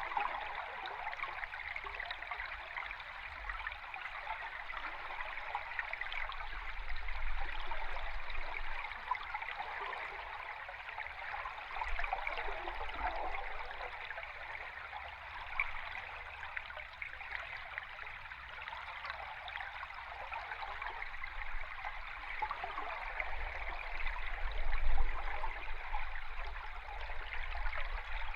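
A river stream heard underwater: continuous bubbling, gurgling water noise with a low rumble underneath, swelling gently in loudness now and then.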